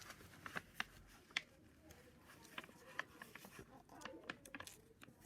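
A sheet of A4 paper being folded in half and creased by hand: faint rustling with scattered sharp crinkles and ticks.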